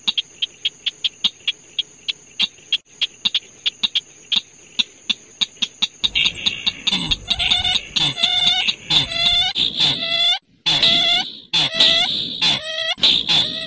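A bird-call lure recording for night trapping. It opens with a run of sharp ticking clicks, about four a second. About six seconds in, loud, harsh, repeated bird calls take over, each with a pitch that drops.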